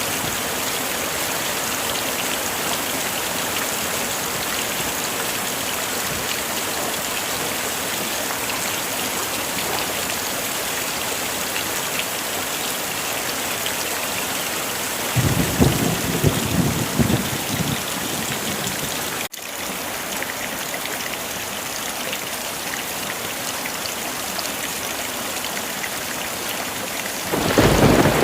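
Heavy rain falling steadily, with two low rolls of thunder: one about halfway through lasting a few seconds, and another building near the end. About two-thirds of the way in there is a split-second dropout in the sound.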